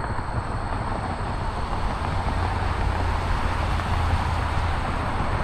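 Steady low rumble with a hiss over it and a faint high whine, unbroken throughout.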